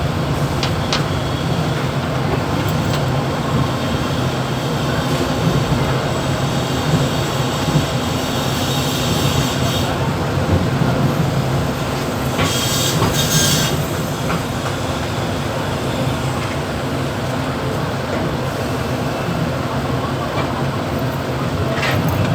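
Mumbai suburban EMU local train running, heard from the motorman's cab: a steady rumble of the train on the track, with a stretch of high-pitched wheel squeal about halfway through.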